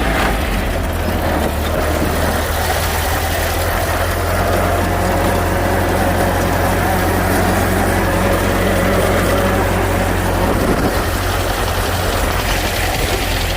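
1928 Ford Model A's four-cylinder engine running steadily, with a change in its low drone about eleven seconds in.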